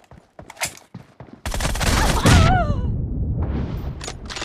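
Video game gunfire in a first-person shooter: a few faint clicks, then about a second and a half in a sudden loud burst of rapid fire that lasts about a second and a half, a shorter burst after it, and a few single sharp shots near the end.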